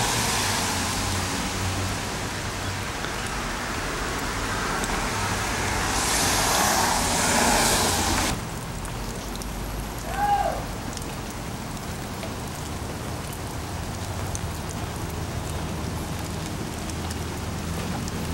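Steady hiss of rain on wet ground, louder for the first eight seconds, then dropping abruptly to a softer level. A single brief high call comes about ten seconds in.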